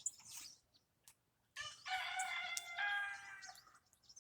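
A rooster crowing once, a call of about two seconds that starts about one and a half seconds in.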